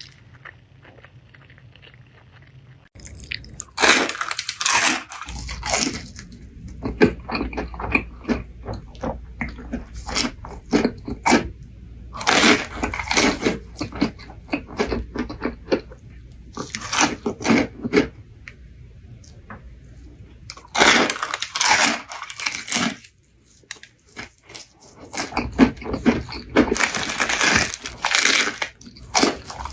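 Close-miked eating: crunchy bites and chewing of crisp food, in loud bursts with short pauses between, starting about three seconds in.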